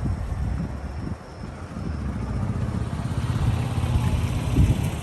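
A car engine idling with a deep, uneven rumble; it dips briefly about a second in and swells louder near the end.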